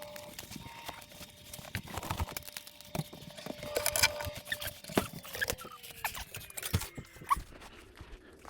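Old dishwasher being pulled out of its under-counter opening: irregular knocks, clicks and scraping of the metal unit against the cabinet and floor, with a faint squeal that slowly falls in pitch in the second half.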